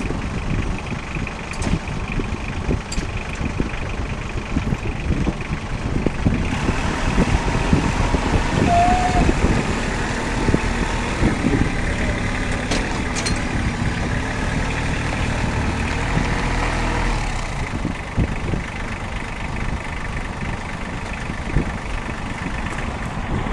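Tractor engine running steadily, louder and fuller for about ten seconds in the middle before settling back to a lower run.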